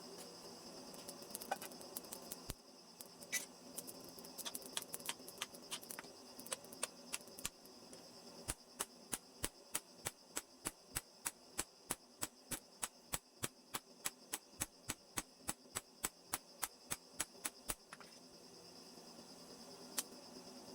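Light, sharp taps, scattered at first, then an even run of about three a second for some ten seconds, with a single tap near the end.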